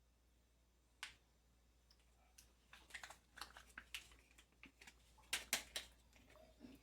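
Faint, scattered clicks and light taps of hands and kitchen utensils at work on the food, busiest around the middle, with a few louder clicks about five seconds in.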